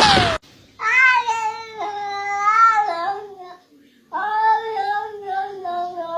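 A cat yowling: two long, drawn-out, wavering calls of about three seconds each, with a short pause between them.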